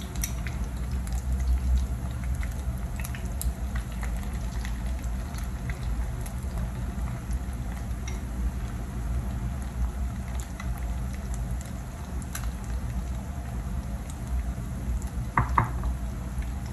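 Ground-beef and egg patties (tortang giniling) frying in a pan: a steady sizzle with scattered pops and crackles over a low hum. A short louder knock comes near the end.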